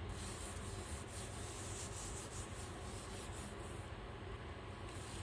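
Steady dry rubbing on paper over a gel printing plate, as when a print is smoothed down by hand. It stops briefly about four seconds in and starts again near the end.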